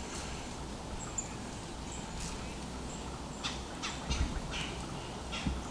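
Brief high bird chirps now and then, with a run of soft rustles and crunches from about halfway in, over a steady outdoor hiss.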